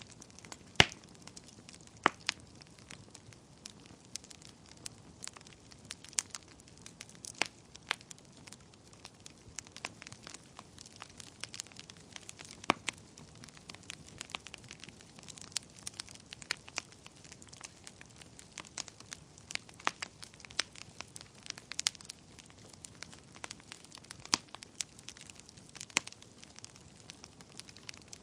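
Wood fire burning in a fireplace: irregular sharp crackles and pops over a faint steady hiss, with the loudest pop about a second in.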